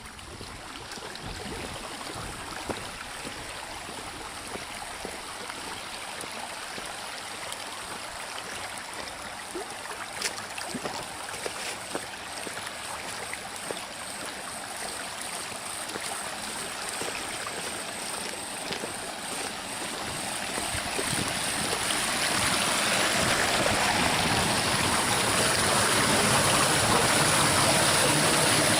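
Rainwater runoff flowing after a heavy downpour: a steady rush of moving water that grows louder over the last third.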